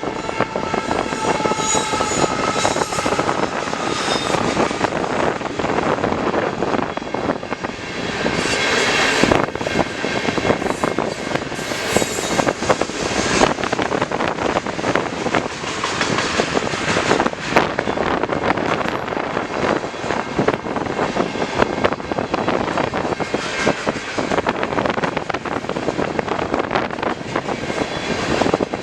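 Freight cars of a CN manifest train rolling past, with a steady rumble of wheels on the rails and many sharp clicks.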